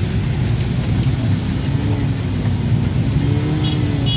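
Motor vehicles on a flooded road: a steady low rumble of engines, one engine's pitch rising and falling in the second half, and two short high beeps near the end.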